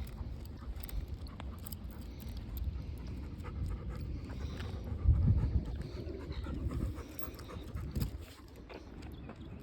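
A dog panting steadily over a low outdoor rumble, with a louder low bump about five seconds in.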